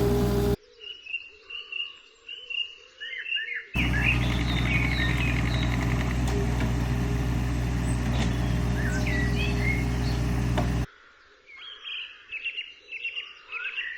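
Digger's diesel engine running steadily, starting and stopping abruptly with the cuts, for a long stretch in the middle and briefly at the start. Songbirds chirp and sing throughout, heard on their own for a few seconds after the start and again near the end.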